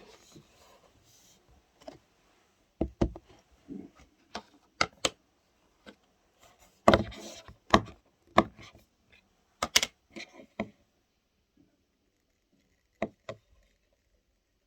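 Slime being handled and played with: an irregular run of sharp clicks, pops and light knocks, densest and loudest in the middle.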